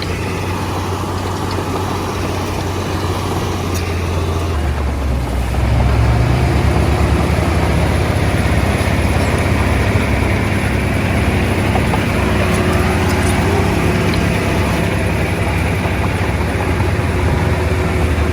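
Bulldozer's diesel engine running steadily, growing louder about five seconds in.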